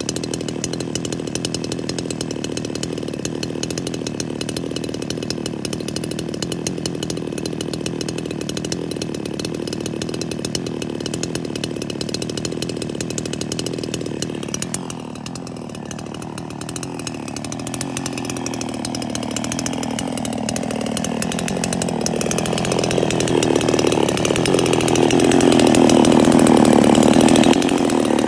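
Chainsaw running at high speed. About halfway through its note drops and falls steadily over several seconds, as an engine does when pulled down under load. Near the end it grows louder and fuller.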